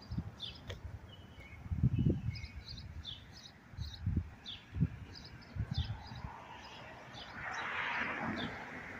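Small birds chirping over and over in short high chirps, with irregular low thuds on the microphone and a brief rush of noise near the end.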